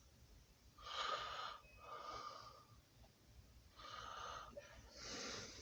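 Faint breathing close to the microphone: four soft, wheezy breaths in and out, each under a second.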